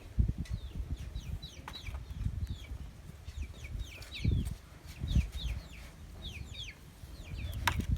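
Young chickens cheeping over and over in short, high, falling chirps, with low thumps and rustling underneath.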